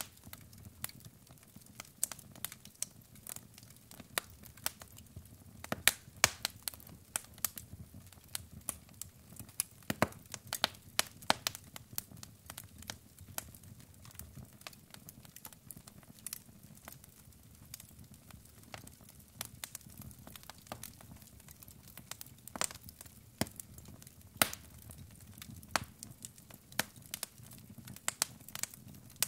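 Wood logs burning in a fireplace: a steady low hiss of flames with sharp, irregular crackles and pops, some louder snaps scattered through.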